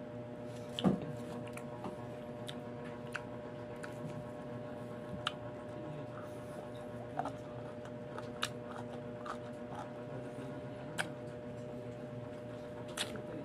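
Biting into and chewing crisp, unripe green mango close to the microphone: scattered short crunches and wet clicks, the loudest about a second in, over a steady background hum.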